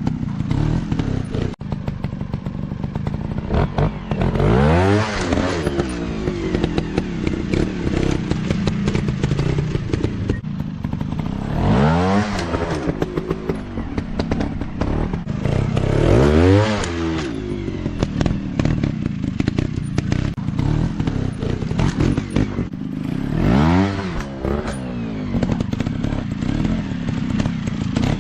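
Dirt bike engines running, revving up and back down four times over a steady engine drone, with some clattering.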